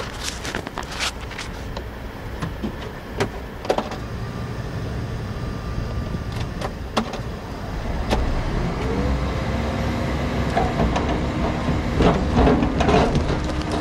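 Liebherr log-handling machine's diesel engine running and taking up load about eight seconds in, with a rising, then steady hydraulic whine and scattered knocks and clunks.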